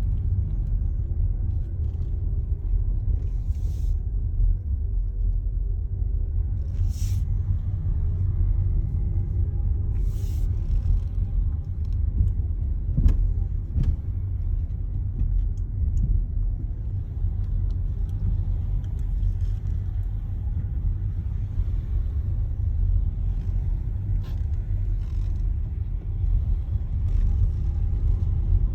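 Steady low road and tyre rumble from a TOGG T10X electric SUV on the move, with no engine note. A few short hisses come in the first third, and a sharp knock about halfway through.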